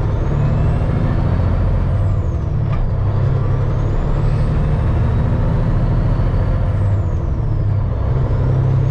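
Semi truck's diesel engine pulling away under load, heard from inside the cab, with a thin high whine that falls and rises twice as the revs change.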